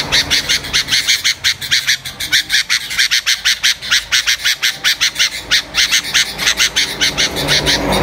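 Bird calling in a fast, even run of short high chirps, about eight a second, kept up without a break.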